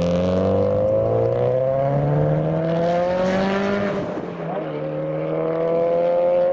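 Subaru Impreza's flat-four engine accelerating hard away from the lights, its pitch climbing steadily for about four seconds. It then drops sharply at a gear change and climbs again.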